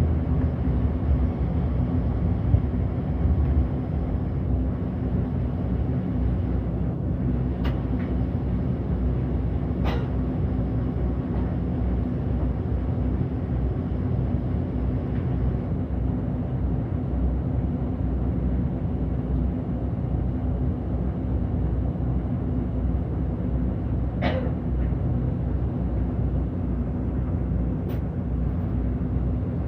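City bus running along the road, heard from inside: a steady low engine and road rumble with a faint steady hum, broken by a few brief clicks and one short squeak about 24 seconds in.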